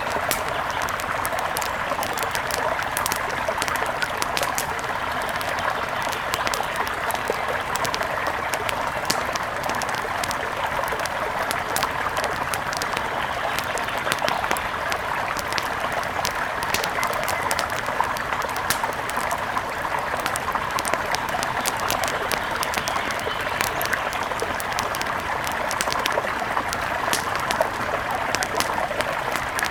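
Mountain river flowing in a steady, even rush, with many small sharp clicks scattered through it.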